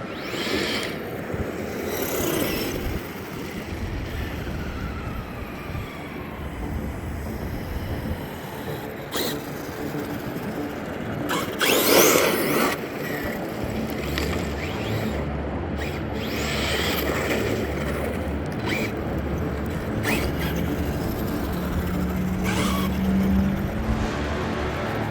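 Arrma Big Rock RC monster truck driving on dusty dirt: the electric motor whines up and down in pitch as the throttle changes, with tyre noise over the ground. A few sharp knocks and scrapes come through, the loudest about twelve seconds in.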